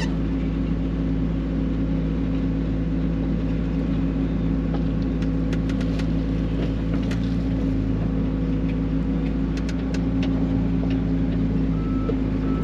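Mini excavator's diesel engine running steadily under digging, with a few sharp knocks and scrapes of the bucket working against rock. A couple of short, high beeps near the end.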